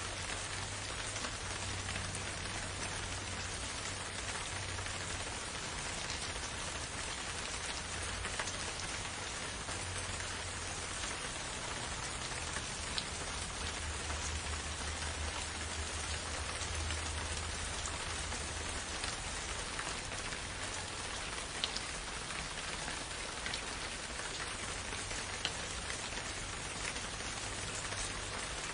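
Gentle, steady rain falling in a forest, with a few sharper single drop ticks standing out now and then.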